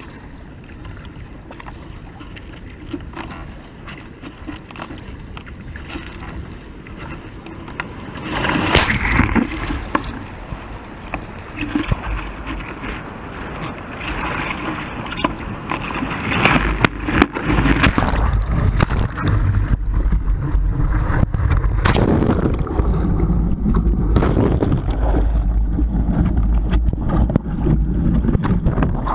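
River water rushing through a rapid, with canoes passing. Wind buffets the microphone, the sound growing much louder about eight seconds in and a low rumble building later.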